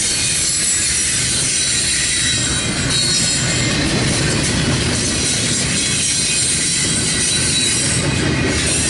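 Double-stack intermodal container well cars of a CSX freight train rolling past, their steel wheels running steadily on the rails.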